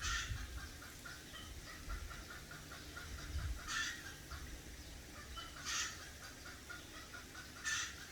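Bird giving four short harsh calls, spaced about two seconds apart, over a faint fast ticking.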